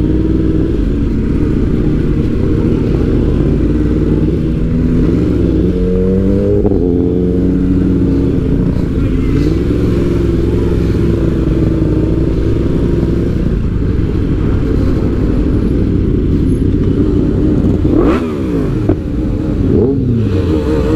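Sport motorcycle engine running steadily, then revved up and down, its pitch climbing and falling about five to seven seconds in and again in a sharp rise and drop near the end.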